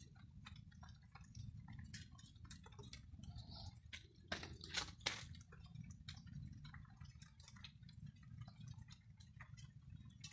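Rain dripping and pattering: many faint, irregular drop ticks, with a few louder drops about four to five seconds in, over a low steady rumble.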